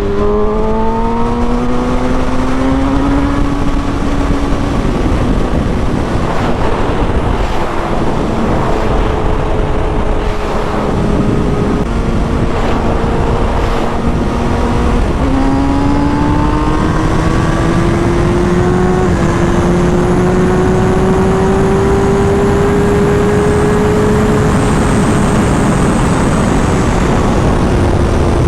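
Kawasaki Ninja ZX-6R engine at speed: it pulls up in pitch for the first few seconds, runs fairly steadily, then climbs again about halfway through, over heavy wind rush on the microphone.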